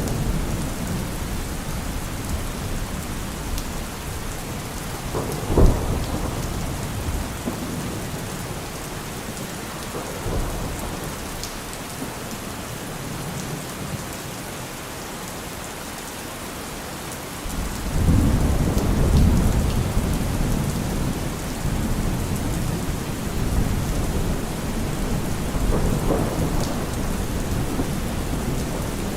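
Steady heavy rain with thunder rumbling under it: a sharp thunderclap about six seconds in, and a long low rumble of thunder that swells a little past halfway and rolls on to the end.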